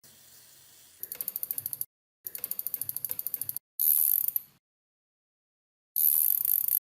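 Rapid ratchet-like metal clicking, about a dozen clicks a second, in short clips that start and stop abruptly. Two louder, harsher bursts come about four seconds in and near the end.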